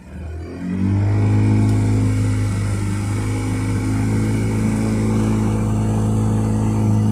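A boat's engine opens up about half a second in, rising quickly and then running steadily under power.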